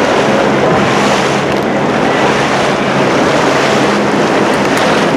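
Motorboat under way: a steady rush of wind buffeting the microphone and water along the hull, over a low engine drone.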